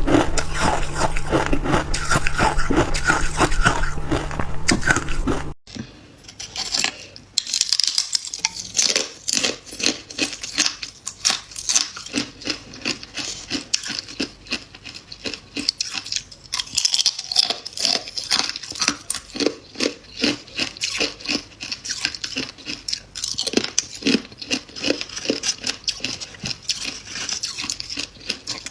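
Freezer frost being bitten and chewed: dense, rapid crunching close to the microphone. The sound changes abruptly a little over five seconds in, to a crisper crunch without the low hum underneath.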